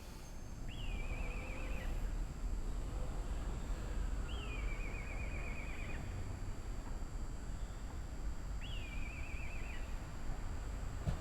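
Low rumble of an approaching train on the Sobu Line, growing about a second in and then holding. Over it a short warbling chirp repeats three times, about four seconds apart.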